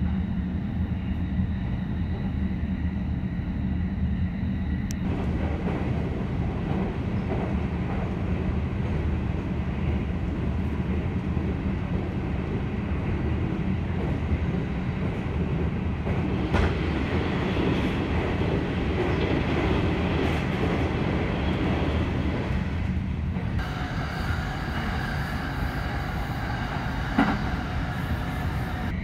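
Cabin running noise of a JR East E531 series electric train at speed: a steady rumble of wheels on track. It grows louder for several seconds midway while the train crosses a steel truss bridge, and near the end a steady whine of a few tones sits over the rumble, with a single sharp click shortly before the end.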